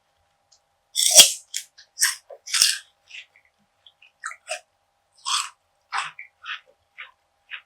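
Crunchy bites and chewing of perilla seed gangjeong, a brittle seed bar: two loud crunching bites in the first three seconds, then lighter, evenly spaced crunching chews.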